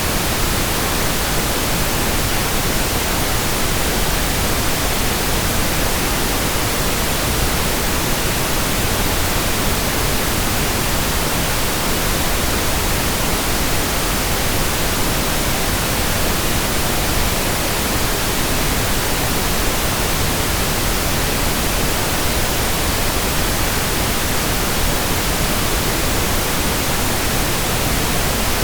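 Steady pink noise: an even, unchanging hiss spread across all pitches, fuller in the low end than white noise.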